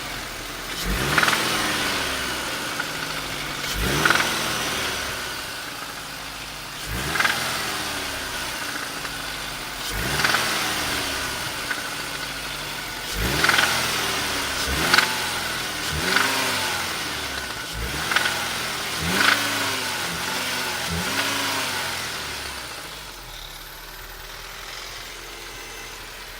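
BMW E46 318i's M43B19TU 1.9-litre four-cylinder petrol engine revved in about ten sharp throttle blips, each climbing and dropping back to idle, several in quick succession, with knocking from under the valve cover on the blips. It settles back to a steady idle near the end.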